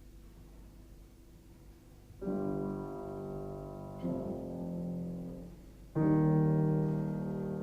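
Piano introduction to a song: after a quiet start, three slow chords are struck about two seconds apart, each left to ring and fade.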